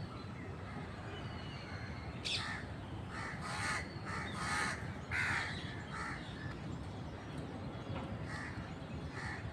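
Crows cawing: short harsh caws repeated about six times, with faint thin chirps from smaller birds between them.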